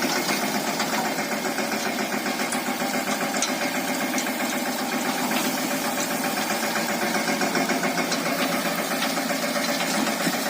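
Mahindra Yuvraj 215 NXT mini tractor's single-cylinder diesel engine running steadily with a fast, even knock.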